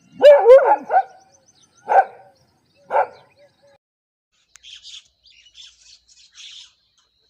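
An animal calling: a quick run of loud pitched cries, then two short single calls about a second apart. Faint high bird chirps follow in the second half.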